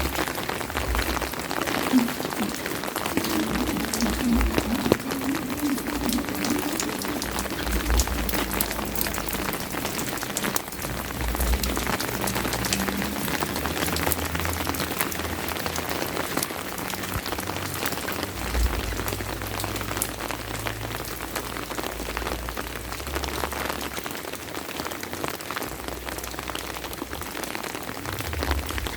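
Steady rain falling, with many close raindrops striking in quick, irregular succession.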